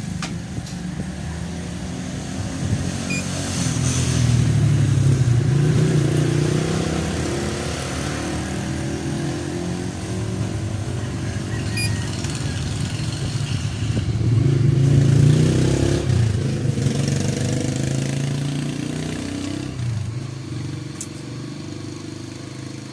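Motorcycle engines passing by, swelling louder about four seconds in and again about fifteen seconds in, then fading.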